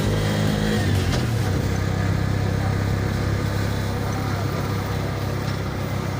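Car engine and road noise: a steady engine note that gives way about a second in to a steady low rumble.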